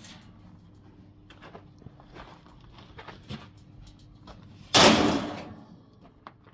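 Parts of an air-conditioner being handled during a teardown: scattered light taps and clicks, then one loud crash about five seconds in that dies away over about a second.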